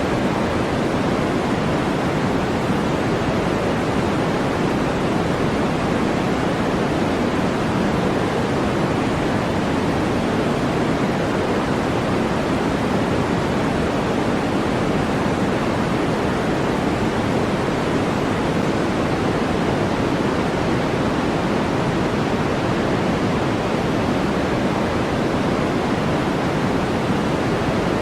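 Steady electronically generated noise from a white-noise track: an even, unchanging rush with no events in it. More of its weight sits in the low and middle range than in the high hiss.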